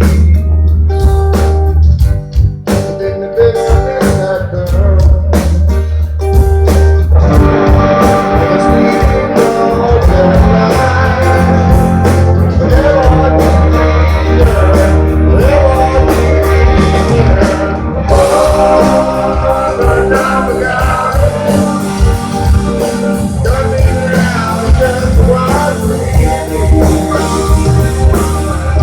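Live rock band playing a slow song, led by guitar over a heavy bass line; the sound fills out about seven seconds in.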